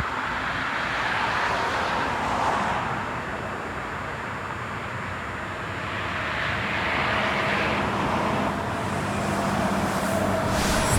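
Road traffic passing by: a steady hiss of tyres that swells and fades a couple of times.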